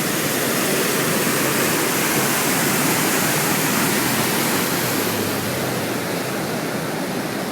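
Steady, loud rush of the flooded Lester River's high water, with the hiss easing slightly about five seconds in.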